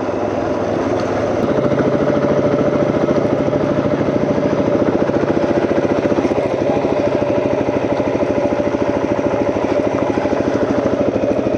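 Off-road vehicle engine running steadily while riding, with a fast, even firing pulse. It picks up slightly about two seconds in.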